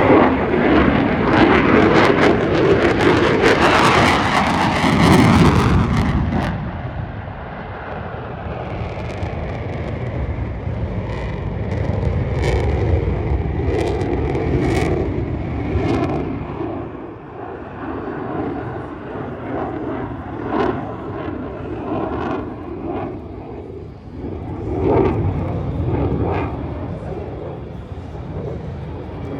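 Aircraft flying over an air show: loud engine noise for the first six seconds, then fading to a quieter steady rumble with a faint wavering engine tone and a short swell again later on.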